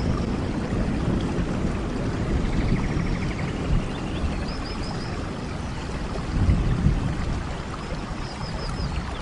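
Steady rain with a rush of water and low rumbling swells, and a few faint, short high chirps in the middle and near the end.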